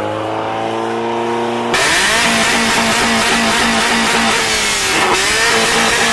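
Car engine revving: its pitch climbs steadily, then about two seconds in it is held high while a loud rushing noise suddenly comes in over it, with a brief dip and recovery near the end.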